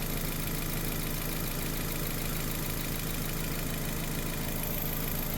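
2006 Nissan Sentra's 1.8-litre four-cylinder engine idling steadily while its cooling system is burped of air after a water pump replacement, with a tapping in its running.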